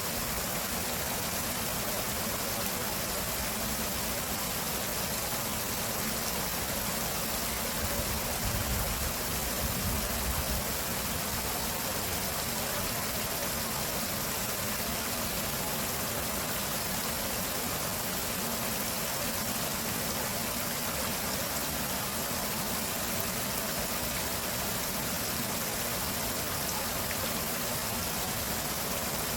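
Stream water flowing and rushing steadily in an even hiss, with a brief low rumble about eight seconds in.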